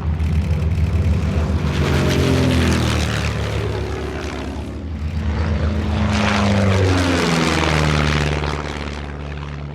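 Propeller aerobatic aircraft flying past at a display, engines running hard, their pitch dropping as they go by, twice.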